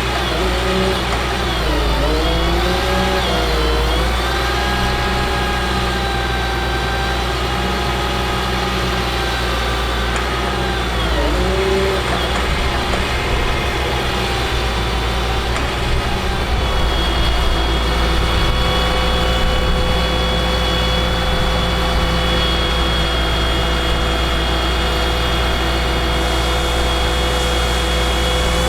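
Caterpillar C7 diesel engine of a Ford F750 bucket truck running, with a whining tone over it. The whine dips in pitch and recovers a few times, then holds steady for the second half.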